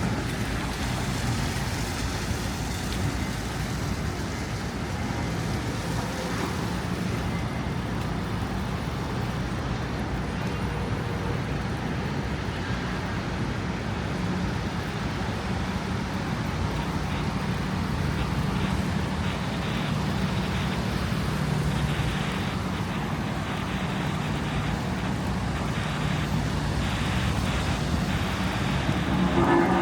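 City street traffic: vehicle engines running with a steady low hum over continuous road noise.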